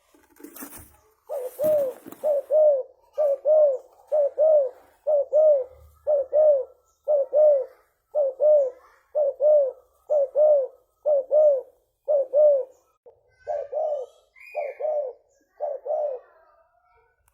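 Spotted dove (tekukur) cooing: a long, even run of short low coos, mostly in pairs at about one pair a second, with a brief rustle just before the series starts.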